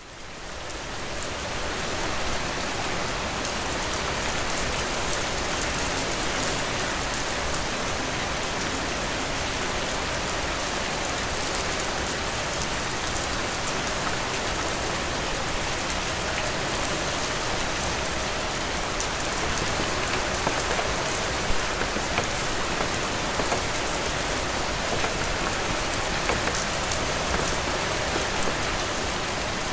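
Heavy rain falling steadily: a dense hiss with fine pattering drops. It fades in over the first two seconds, then holds even.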